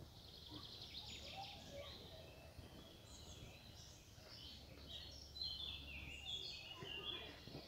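Faint songbirds singing and chirping, with a quick run of notes stepping down in pitch near the end, over a steady low rumble.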